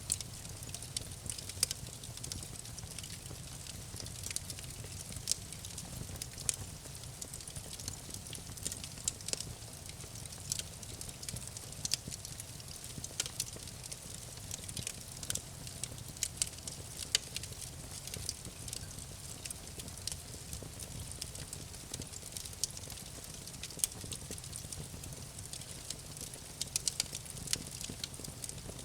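Campfire burning with frequent sharp crackles and pops over a low steady rumble of the flames.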